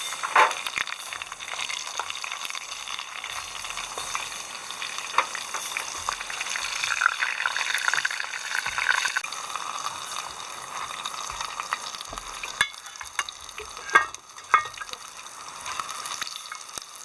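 Food sizzling as it fries in hot oil, with a utensil stirring it and a few sharp clicks and knocks against the pan.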